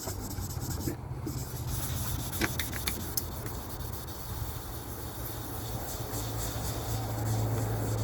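A rag rubbing and wiping over a plastic headlight lens, over a steady low hum, with a few short ticks about two and a half seconds in.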